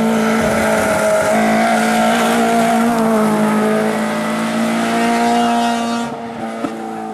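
Race car engine held at steady high revs, dropping off about six seconds in.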